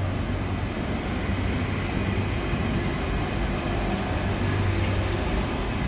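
ÖBB Railjet passenger coaches rolling slowly past as the train departs: a steady rumble of wheels on the rails with a constant low hum.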